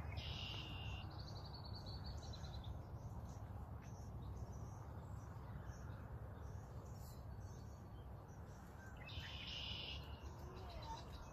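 A songbird singing two short phrases about nine seconds apart, each a brief buzzy burst, the first followed by a quick trill, over a steady low background rumble.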